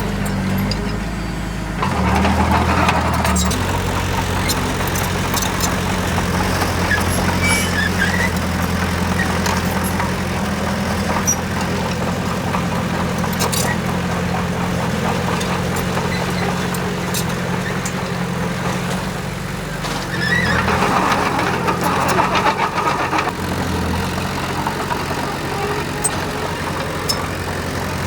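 Heavy diesel engine of a construction machine running steadily, with two louder spells lasting a second or two: one about two seconds in and one about twenty seconds in.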